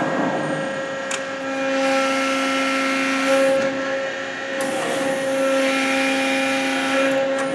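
Cincinnati Autoform 90-ton CNC hydraulic press brake running under power: a steady hydraulic whine made of several held tones, with a few sharp clicks.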